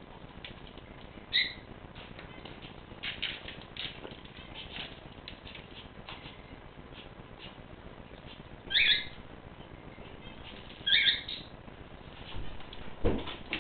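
Pet cage birds giving three short chirping calls, about one, nine and eleven seconds in, over scattered light clicks and taps, with a soft low thud near the end.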